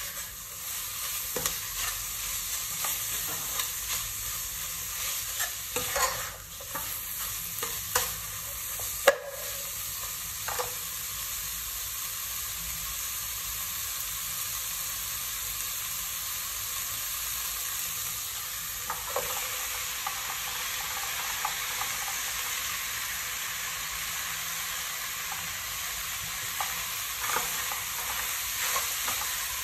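Food frying with a steady sizzle in a stainless steel pot while a metal ladle stirs and scrapes it, with occasional clinks of the ladle against the pot; the sharpest knock comes about nine seconds in.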